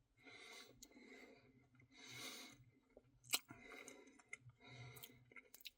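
Faint eating sounds, mostly quiet: soft mouth noises while eating ice cream, with a few small clicks, the sharpest about three and a half seconds in.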